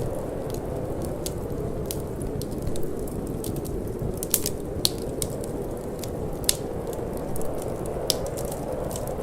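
Wood fire crackling in a fireplace, with irregular sharp pops, the loudest a little after the middle, over a steady low rush of wind.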